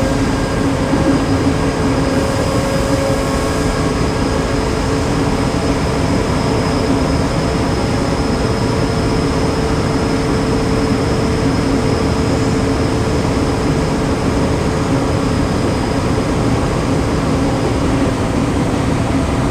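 Tokyo Metro 7000 series train heard from inside the car while running between stations: a steady rumble of wheels on rail with a few faint steady tones from its Hitachi two-level IGBT VVVF inverter and traction motors. The tones fade out near the end.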